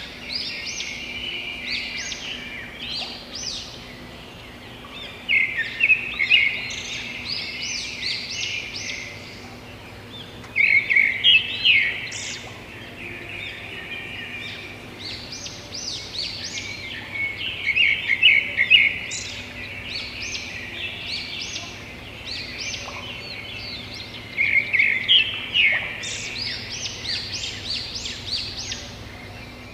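Songbirds chirping in bursts of rapid high notes, with a new burst every six or seven seconds and quieter chirping in between. A faint steady low hum runs underneath.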